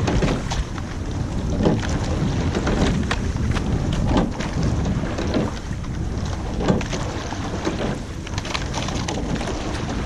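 Rowing eight under way: wind buffeting the microphone over the rush of water, with a knock about every 1.2 s as the crew takes each stroke.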